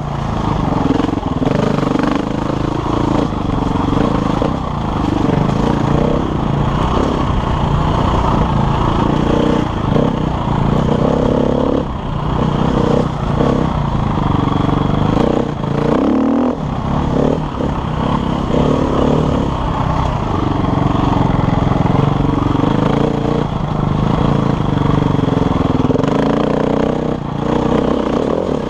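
KTM enduro dirt bike engine being ridden hard along a trail, the revs rising and falling every second or two as the throttle is worked, with a short dip and climb of the revs about two-thirds of the way through. Wind and clatter of the bike over the ground run under it.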